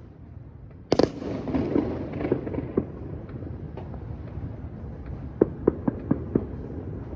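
Fireworks going off close by: one loud bang about a second in, rumbling and echoing for a couple of seconds, then a quick string of sharp cracks and pops later on.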